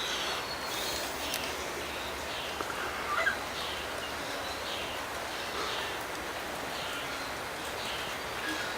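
Birds calling outdoors: a short, high, slightly falling chirp repeats about once a second, with a lower call about three seconds in, over a steady background hiss.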